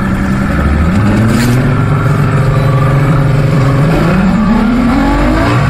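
Evinrude 200 HP V6 two-stroke outboard accelerating hard from a standing start. Its pitch climbs about half a second in, holds, sags briefly near four seconds, then rises again near the end.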